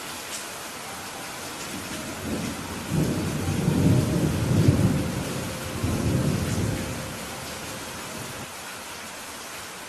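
Steady rain hissing, with a rolling rumble of thunder that builds about two seconds in, swells twice and dies away by about seven seconds.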